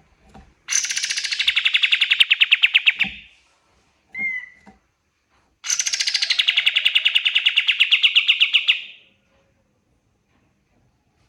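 Kapas tembak songbird singing two long, rapid trilled phrases, each starting high and settling lower, with one short chirp between them.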